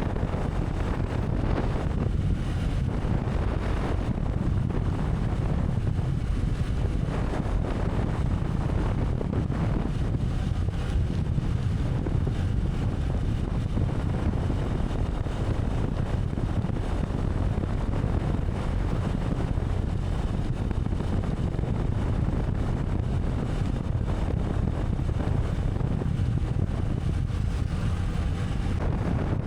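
Steady low wind rumble buffeting the microphone over vehicle road noise, as on a moving motorcycle.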